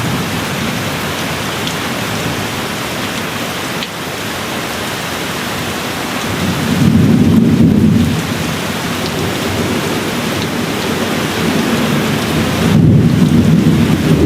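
Steady rain falling, with low rolling thunder swelling up twice, once about halfway through and again near the end.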